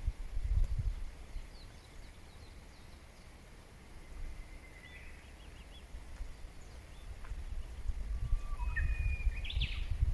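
Wild birds chirping faintly outdoors: scattered short high chirps, a brief trill about halfway through and a livelier burst of calls near the end, over a low rumble that swells at the start and again toward the end.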